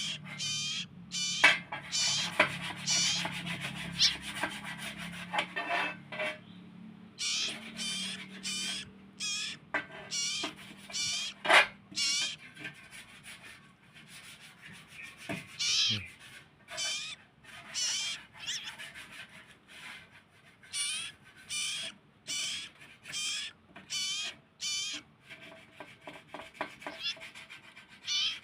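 Small songbird singing in short, rapid bursts of high chirping notes, repeating about once a second, of the kind played as a song-master or lure recording for songbirds. A low hum runs under the first half.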